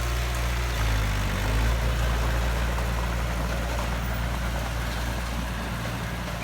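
Heavy diesel engine of earthmoving equipment running steadily at a low, even pitch, with a slight change in engine note near the end.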